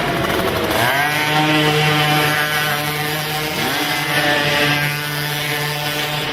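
Racing quad (ATV) engines running hard. One engine's pitch climbs about a second in and again around three and a half seconds in, then holds steady at high revs.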